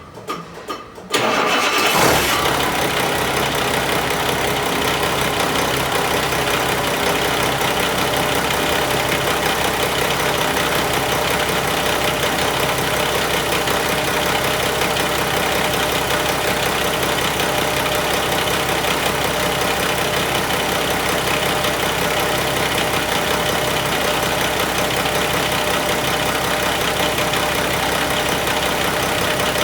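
Mack E7 inline-six diesel engine starting about a second in, then idling steadily.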